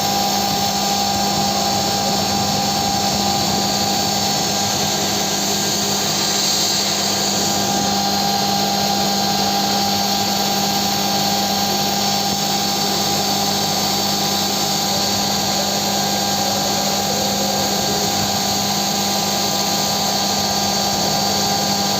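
CNC milling machine running, its spindle giving a steady, even whine made of several constant tones over a hiss of machine noise.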